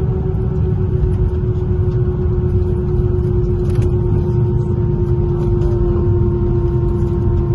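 Airbus A320-232 cabin noise: a steady low rumble with a constant engine hum that slowly sinks a little in pitch.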